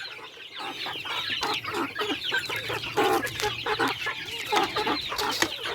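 A flock of upgraded native chickens clucking, many short calls overlapping continuously, as the birds crowd in to feed.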